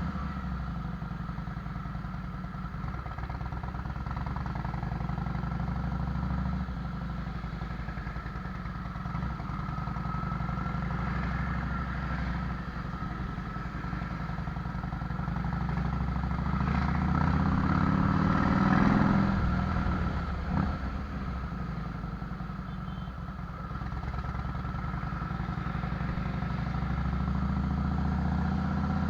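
Harley-Davidson Fat Boy's air-cooled V-twin running through Vance & Hines fishtail exhaust, a steady deep note. About two-thirds of the way through it swells and rises in pitch, then settles back to its earlier note.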